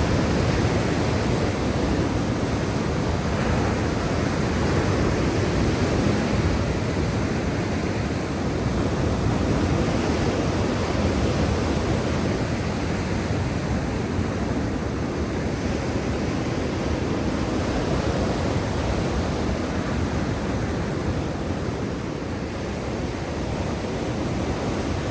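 Surf of the Black Sea: a continuous rushing wash of waves, rising and falling slightly in loudness.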